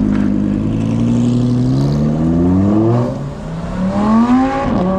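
A car engine idling and then revved twice: the pitch climbs steadily for a couple of seconds, drops, climbs again more sharply about four seconds in, then falls back to idle near the end.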